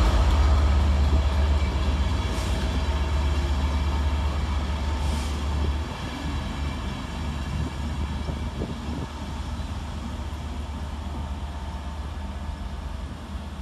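Class 67 diesel locomotive's two-stroke V12 engine rumbling at low pitch, gradually fading, with a drop in level about six seconds in.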